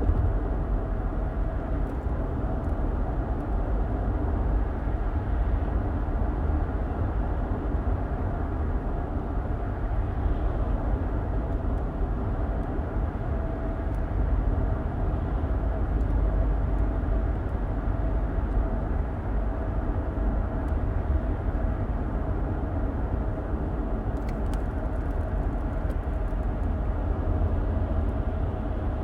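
Car driving along, heard from inside the cabin: a steady low rumble of road and engine noise, even throughout.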